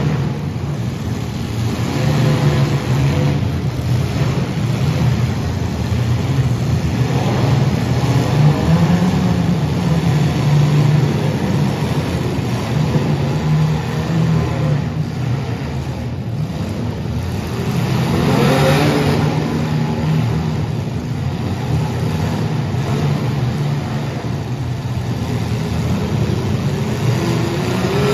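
Compact demolition derby car engines running hard and revving, pitch wavering up and down, with a sharp rise in revs about two-thirds of the way through and another near the end.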